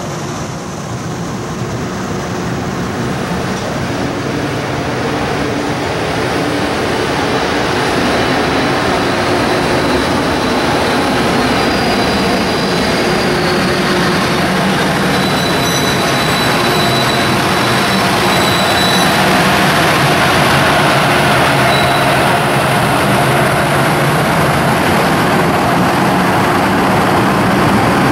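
Freight train of oil tank wagons behind an EH200 electric locomotive rolling slowly through the station as it arrives, steel wheels rumbling and clattering on the rails, growing louder, with faint high wheel or brake squeals in the middle.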